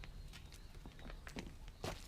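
Faint footsteps and a few small clicks and knocks, about four in two seconds, over a low steady hum.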